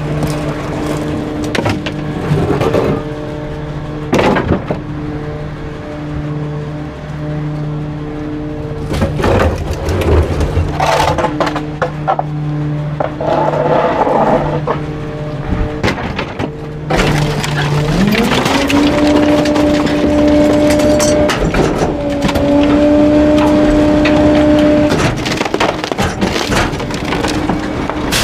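Garbage truck engine idling with scattered cracks and crunches as the packer crushes bulky waste in the hopper. About two-thirds of the way through, the engine steps up to a higher steady speed for several seconds to drive the packer hydraulics, then drops back to idle.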